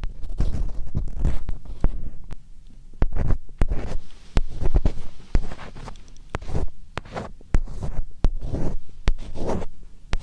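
Close-miked ASMR scratching: fingernails scratching and clicking right at the microphone in quick, irregular strokes, with low thuds from the mic being handled.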